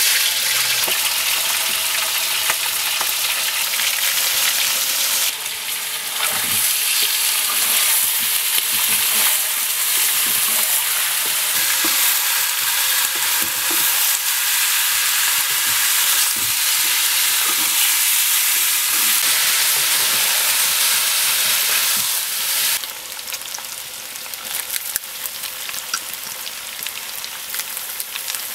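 Chicken pieces sizzling loudly in hot oil in a metal karahi, stirred and scraped with a wooden spatula. The sizzle starts suddenly as the chicken goes into the oil, and turns quieter with about five seconds to go.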